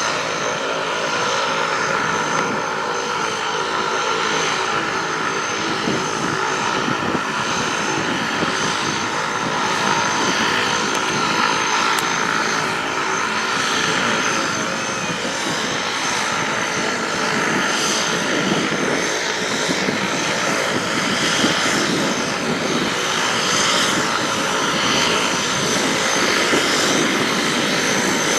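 Float plane's propeller engine running steadily and loudly throughout, a dense engine drone with its propeller.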